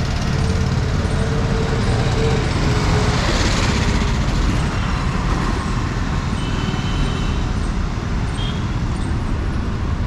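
Street traffic: motor vehicle engines running steadily, with a vehicle passing close about three seconds in.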